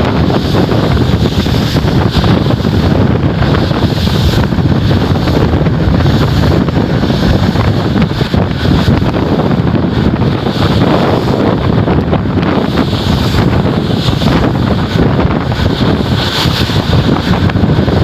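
Strong wind buffeting the microphone on a ship's deck, a loud, steady rumble that swells and dips with the gusts, with sea noise beneath it.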